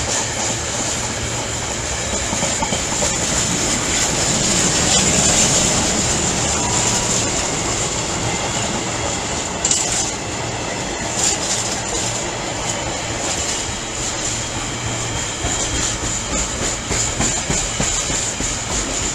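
Train running through the station on the rails, a steady loud rail noise that swells about five seconds in, with a high ringing from the wheels.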